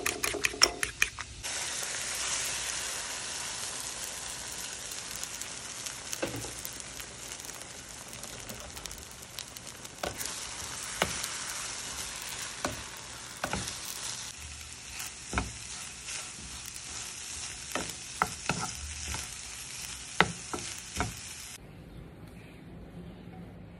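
A fork clicks rapidly against a bowl as egg is beaten for about the first second and a half. Then egg and sliced bitter melon sizzle steadily in a nonstick frying pan, with a wooden spatula knocking and scraping the pan now and then. The sizzle stops a couple of seconds before the end as the pan is lifted off the heat to plate the food.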